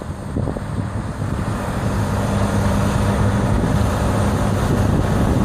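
Dump truck engine running hard to drive the hydraulic hoist as the bed tips up to dump its load, a steady drone that grows louder.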